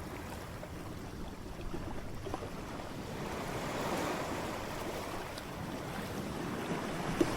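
Ocean waves breaking on a shore: a steady rush of surf that swells about halfway through and builds again near the end.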